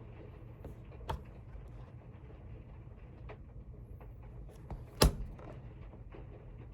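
Steady low hum of a small room with a faint hiss, a light click about a second in and one sharp click about five seconds in.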